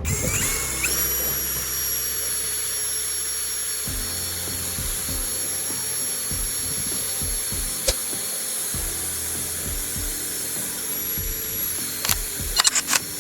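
A power drill spinning up and then running steadily, with a few sharp clicks near the end.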